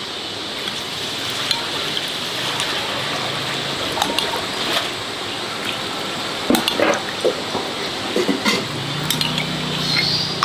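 Steady watery hiss with scattered clinks of dishes and utensils.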